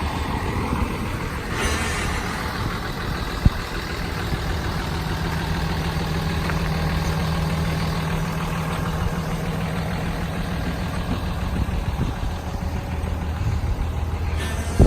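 Cummins 6.7-liter turbo diesel in a Dodge Ram 5500 truck idling steadily. A sharp click comes about three and a half seconds in, followed by a steady low hum over the idle until about eleven seconds in.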